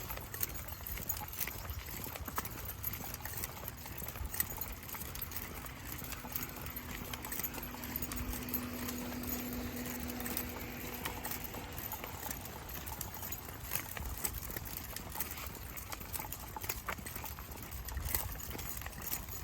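Footsteps of people and dogs walking on a trail, with scattered light clicks and ticks throughout. A steady low hum runs for about four seconds in the middle.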